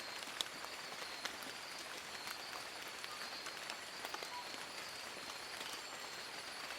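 Rain falling on forest leaves: a steady patter with many separate drop clicks, and a faint steady high-pitched hum beneath.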